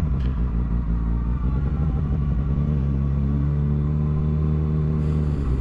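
Motorcycle engine running steadily at low speed, its pitch creeping up slightly past the middle.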